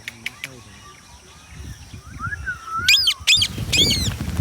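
Indian ringneck parakeet calling: a soft wavering whistle about two seconds in, then loud, sharp, repeated screechy calls from about three seconds in. A low rumbling noise sits under the calls near the end.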